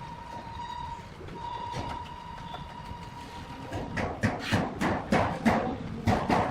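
Workshop noise: a steady high machine whine, then from about four seconds in a fast, even run of sharp knocks, about three to four a second, growing louder.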